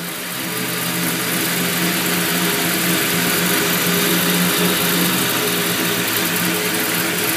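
1985 Chevy Silverado's gasoline engine idling steadily just after firing up on a new gear-drive starter, first start in a while; it climbs a little in the first second, then holds an even idle.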